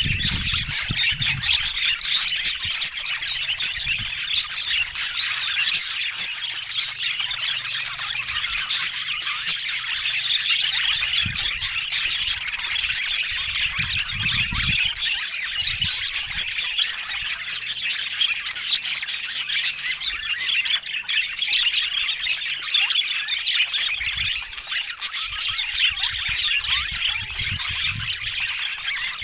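Budgerigars chattering continuously, a dense stream of rapid chirps, warbles and squawks.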